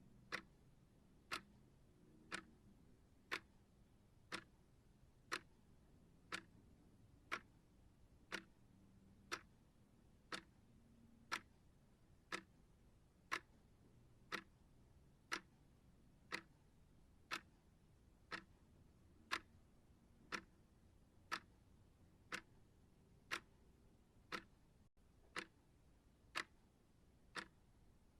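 Clock ticking at an even one tick per second, each tick short and sharp.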